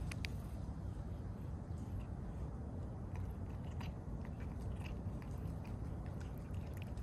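Cats licking and smacking at Churu paste treat, a scatter of small wet clicks, over a steady low rumble.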